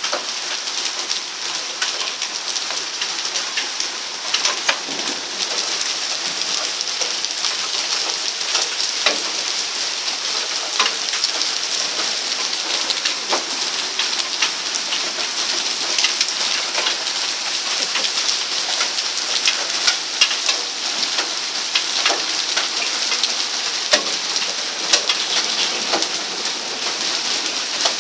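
Heavy rain pouring steadily, with frequent sharp taps of drops striking a nearby surface.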